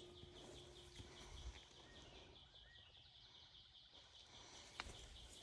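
Near silence: faint outdoor background with a faint high chirp repeating about four times a second, and a few soft ticks.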